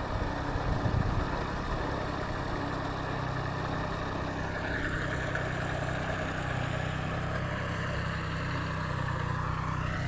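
Mini tractor's small engine running steadily at an even speed, with a faint tone sliding slowly downward in the second half.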